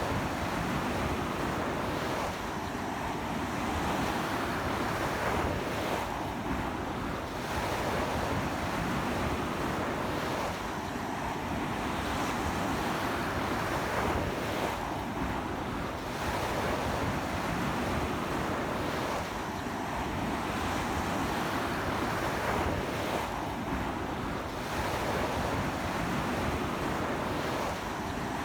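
Sea waves breaking and washing up a beach, surging and easing every few seconds, with strong sea wind buffeting the microphone.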